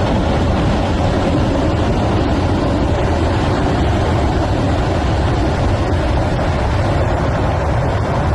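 Debris flow of water, rock and boulders rushing by: a loud, steady rushing noise, heaviest in the low end.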